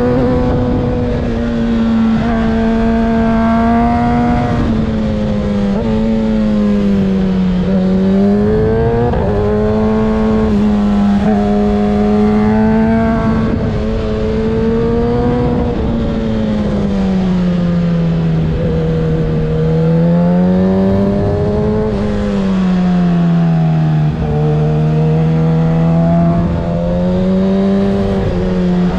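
2024 Kawasaki ZX-6R 636's inline-four engine through a Graves aftermarket exhaust, running under load on a winding climb. Its pitch rises and falls with throttle and gear changes, with clear drops around a third of the way in, a longer dip past the middle, and another about three quarters through.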